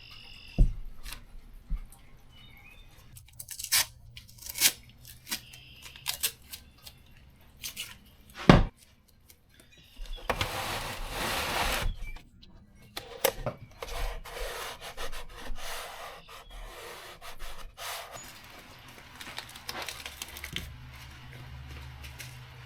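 Hands working potting soil into small seed-starting cups: rubbing and scraping of dirt with scattered light clicks and knocks as cups and tray are handled, one sharper knock partway through and a longer stretch of scraping about ten seconds in.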